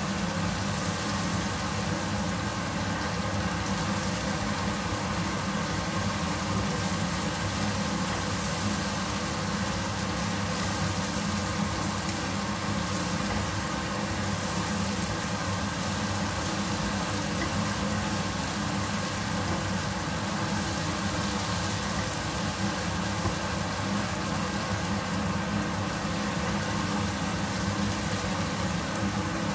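Chopped chili and garlic paste sizzling in oil in a non-stick wok as a silicone spatula stirs it, over a steady fan-like hum.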